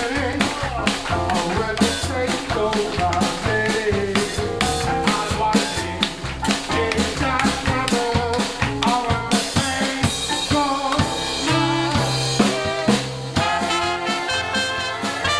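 A jazz band playing swing, the drum kit loud and busy with rimshots and bass drum through most of the stretch; from about ten seconds in, horns come in with held, wavering notes over the drums.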